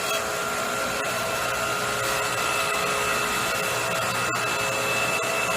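Electric hydraulic log splitter (2300 W motor and pump) whirring steadily, with the control lever on the fast 'rabbit' speed during an empty warm-up stroke of the ram, no log loaded.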